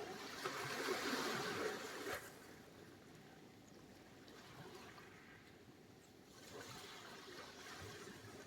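Sea surf: a wave washes in loudly for the first two seconds and falls away, then the next wave swells in after about six seconds.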